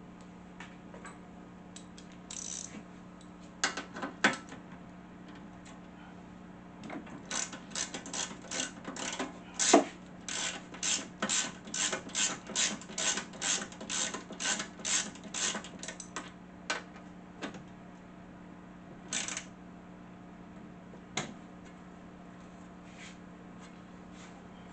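Ratchet wrench clicking on a bolt in a steady run of strokes, about three a second, for around nine seconds, with one louder metal knock partway through. There are scattered metal clicks and clanks before and after the run.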